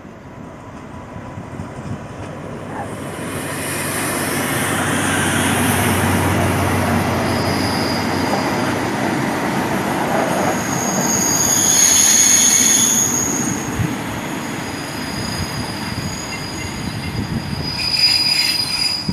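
Diesel-hauled SRT passenger train running past the platform. The rumble of the coaches builds over the first few seconds, and high-pitched wheel squeal rings out loudest about twelve seconds in and again near the end.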